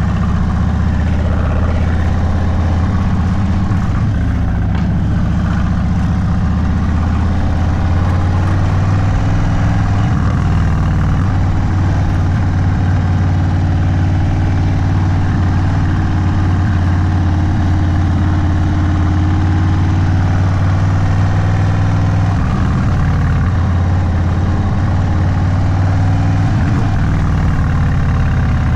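Indian Sport Chief's V-twin running through a Sawicki Speed aftermarket exhaust at low, mostly steady revs, as in slow cruising or idling. The engine pitch dips and rises briefly a few times near the end.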